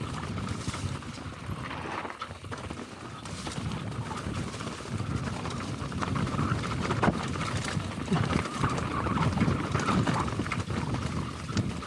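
Mountain bike descending a rough, rocky trail: the tyres, fork and frame clatter over rocks and roots, with the chain slapping. The bike rattles steadily, with many small knocks and a little louder after a few seconds.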